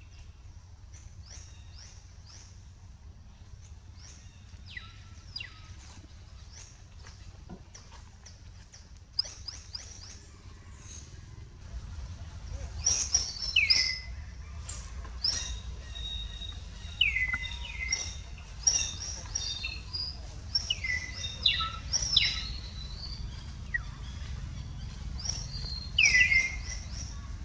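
Birds chirping and calling: short high chirps and quick trills, with several loud falling notes from about halfway in, over a low steady rumble.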